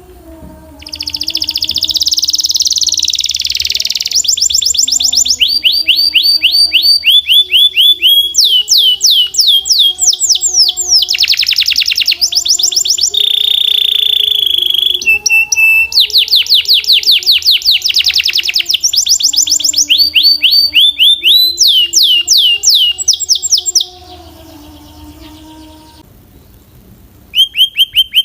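Belgian canary singing loudly: rapid trills of fast, repeated downward-sweeping notes that switch to a new phrase every second or two, with a pause of about three seconds near the end before the song starts again.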